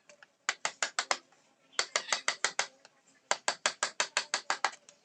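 Mallet tapping a carving chisel into teak: quick, sharp strikes about six or seven a second, in three runs separated by short pauses.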